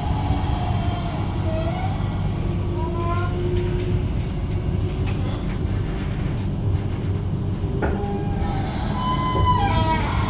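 Flexity low-floor tram running, heard from inside the car: a steady low rumble of wheels and drive, with faint higher tones over it.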